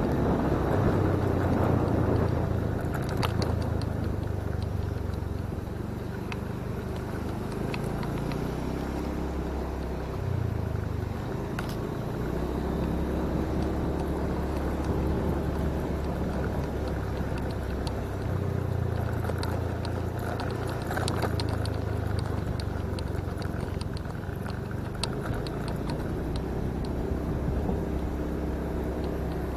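Motorcycle engine running under way, with wind and road noise. The engine note steps up and down a few times as the speed changes.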